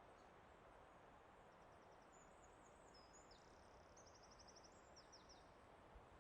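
Very faint forest ambience: a steady soft hiss, with a small bird singing high, rapid trills and chirps from about a second and a half in until near the end.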